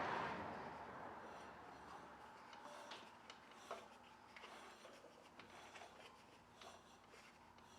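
Near silence with a few faint clicks and light metallic ticks as the opened-up Kohler 19 hp engine is turned over by hand, checking the piston and rod for play at the bottom of the stroke.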